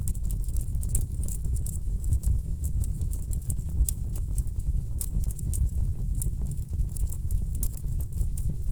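Wood fire burning in a fireplace, with logs crackling and popping in quick, irregular sharp snaps over a steady low rumble of the flames.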